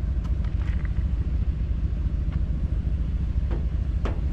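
A vehicle engine idling close by: a steady low rumble with an even pulse, with a few faint ticks over it.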